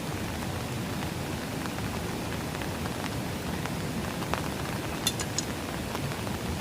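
Steady rain falling, with scattered sharp ticks of drops and a short cluster of them about five seconds in.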